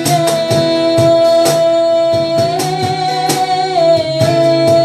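Worship music: a guitar strummed in a steady rhythm under a woman's voice holding one long sung note, which steps up in pitch about halfway through and back down near the end.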